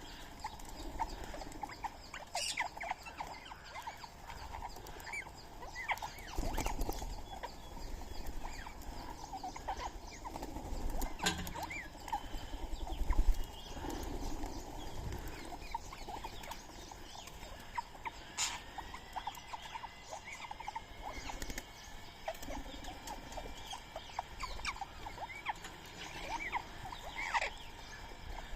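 Birds and a squirrel feeding on soaked rice and corn: scattered short chirps, pecking and scrabbling clicks, with a longer drawn-out call about two-thirds of the way through.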